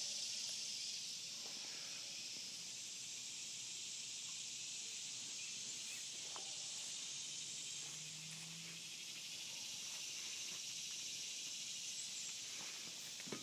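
Steady high-pitched insect chorus in summer heat, with a few faint clicks and a brief low hum in the background.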